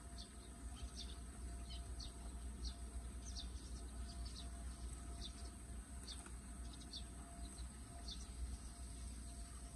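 Faint chirping of small birds, short high calls one or two a second, over a steady low rumble and a high hiss.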